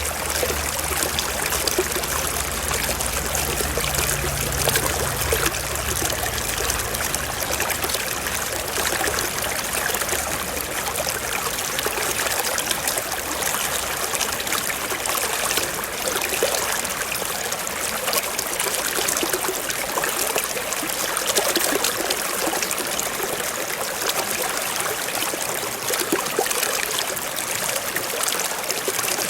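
Forest stream flowing steadily, an even mix of rushing and trickling water.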